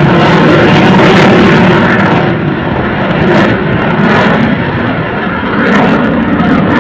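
Loud jet noise from a Dassault Rafale's twin M88 turbofan engines flying a display pass, a dense roar with no break, easing slightly about two seconds in.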